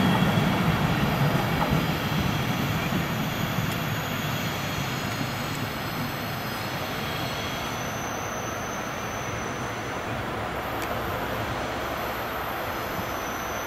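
Intercity train led by an E.414 electric locomotive running along the tracks, its low rumble fading over the first half as it moves off. A faint, thin, high squeal from the wheels comes in after about eight seconds.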